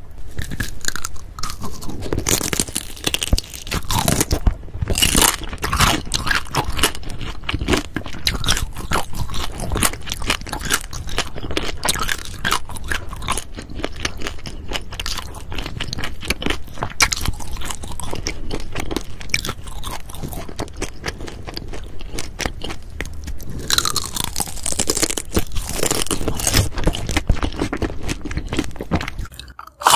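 Biting and chewing grilled daechang (beef large intestine): a dense run of wet, crunchy chewing sounds.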